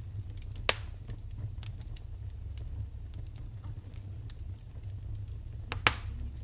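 Wood fire in a fireplace crackling over a steady low rumble, with two sharp pops: one under a second in and one near the end.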